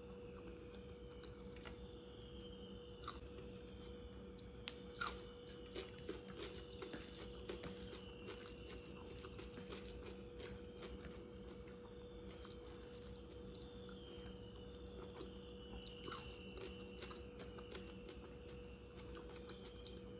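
Close-up chewing and mouth sounds of someone eating rice and curry by hand, with scattered soft crunches and wet clicks. A faint steady hum runs underneath.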